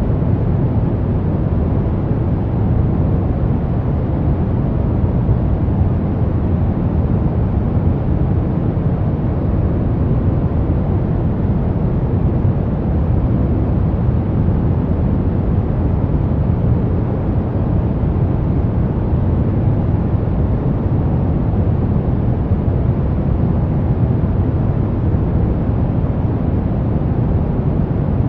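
Brown noise: a steady, deep rumbling hiss, strongest in the bass and dull in the treble, with no changes.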